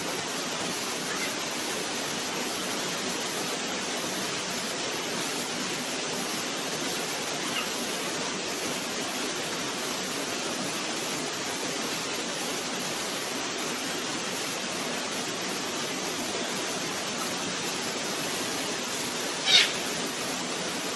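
Waterfall water rushing steadily. Near the end a single short, high-pitched cry cuts through.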